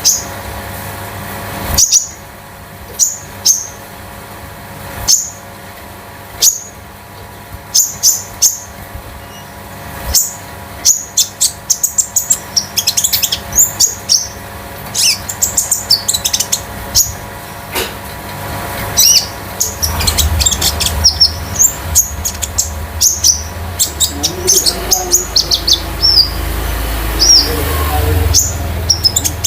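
Konin songbird singing metallic high chirps, spaced a second or so apart at first, then in quick, dense runs. A low rumble comes in about two-thirds of the way through.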